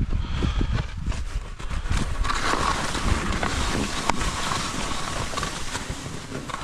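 Skis sliding through deep, heavy wet snow, with wind on the microphone: uneven knocks at first, then a steady hiss from about two seconds in.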